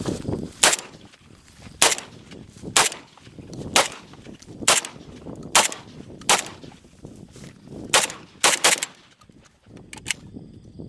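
A gun fired repeatedly: about ten sharp shots, mostly about a second apart, with three in quick succession about eight seconds in.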